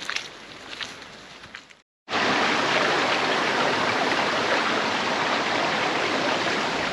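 A few light clicks over quiet outdoor background, then, after a cut about two seconds in, a loud steady rush of water.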